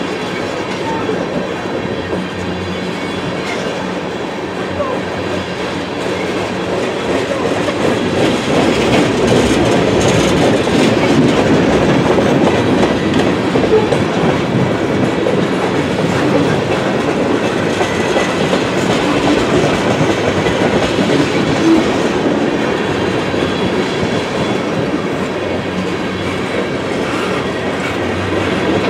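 Freight train of tank cars and covered hopper cars rolling past, the steady sound of steel wheels running over the rails, a little louder through the middle stretch.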